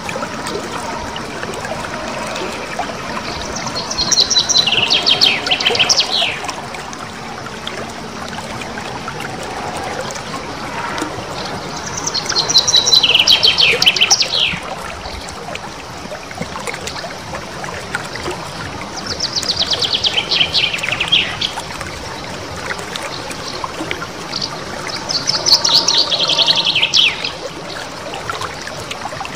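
Small songbird singing rapid, rolling trills: four phrases, each a fast run of sharp notes sweeping down in pitch for about two seconds and coming back every six to seven seconds.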